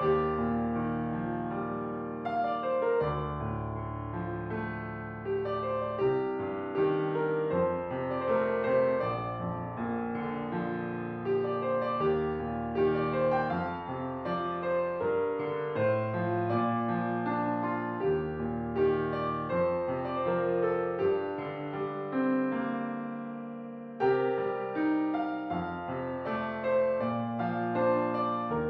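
Calm piano background music: sustained notes and chords, with a new note or chord every second or so.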